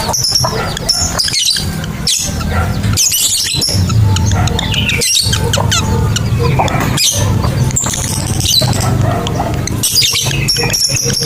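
Lovebirds chattering: a dense run of rapid, high-pitched chirps and short trills, over a steady low hum.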